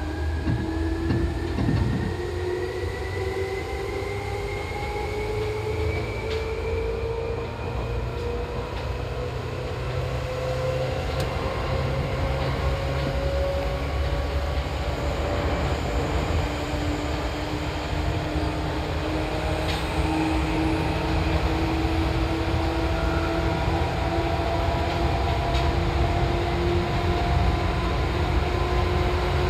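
Seibu 2000-series electric commuter train running, its motor whine rising slowly and steadily in pitch as it gathers speed over a constant low rumble from the wheels on the rails. A few rail-joint clicks come in the first couple of seconds, and about halfway through a second, lower whine joins and climbs with the first.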